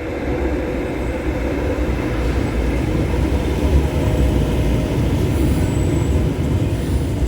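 Tyne and Wear Metrocar train running at the station platform: a steady low rumble that grows louder over the first few seconds and then holds.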